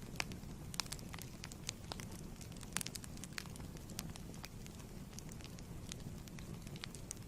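Fireplace fire burning, a steady low rumble with irregular sharp crackles and pops from the burning wood.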